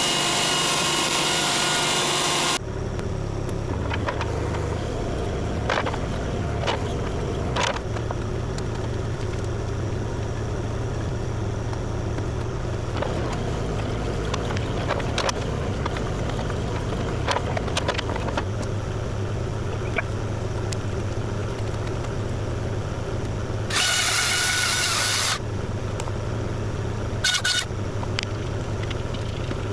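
Kubota KX040 compact excavator's diesel engine running steadily, with scattered knocks and clanks as it works. About two-thirds of the way through comes a loud burst of hiss and whine lasting a second or two.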